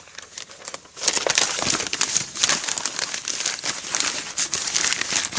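Small campfire of spruce branches catching and burning close to the microphone: dense, loud crackling that starts suddenly about a second in and carries on.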